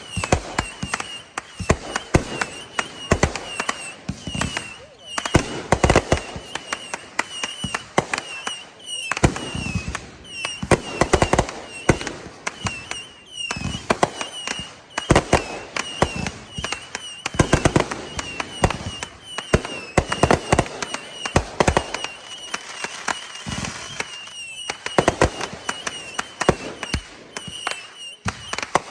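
Fireworks display of 3-inch aerial shells and 500-gram cakes going off: a dense run of bangs and volleys in clusters, with louder bursts every few seconds.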